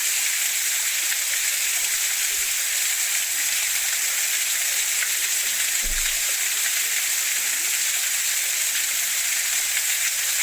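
Waterfall: a steady, even rush of falling water, with a brief low thump about six seconds in.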